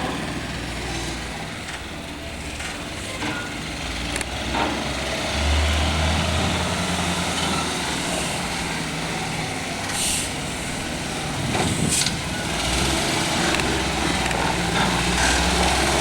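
Heavy diesel truck engine running, its low drone rising and falling in strength, with two short hisses of air about ten and twelve seconds in.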